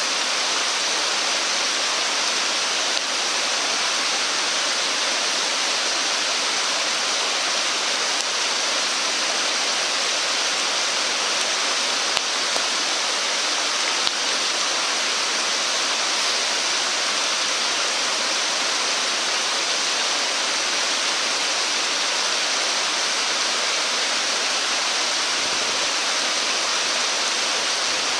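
Steady rushing of flowing stream water, with a few faint ticks.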